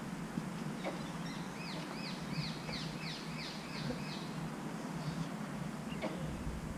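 A bird calling a quick series of about nine arched notes, around four a second, starting about a second and a half in, over steady outdoor background noise. Two faint clicks come, one near the start and one near the end.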